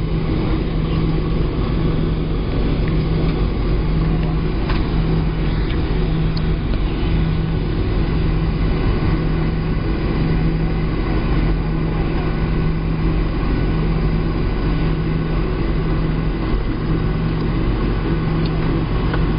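Boeing 737-700 cabin noise with the CFM56 engines at idle: a steady, even rumble with a low hum that pulses on and off every second or two.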